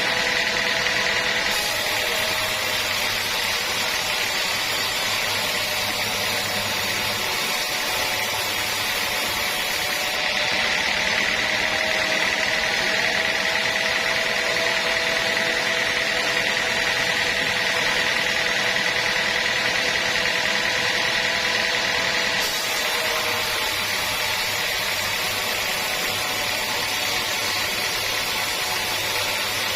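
Sawmill saw running steadily as it cuts through a teak log, a continuous mechanical whine whose pitch shifts slightly a few times.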